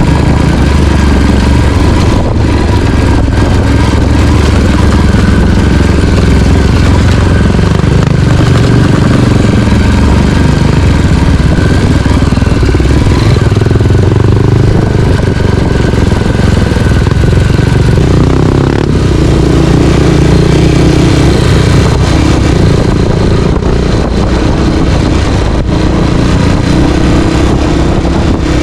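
Dirt bike engine running loudly while riding, the throttle rising and falling.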